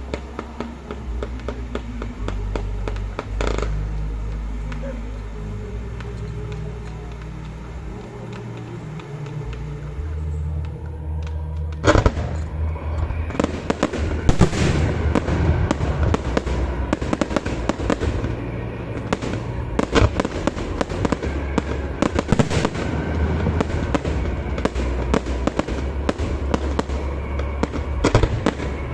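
Fireworks display: scattered bangs at first, then a loud bang about twelve seconds in sets off a dense barrage of bangs and crackling that keeps going, with music under it.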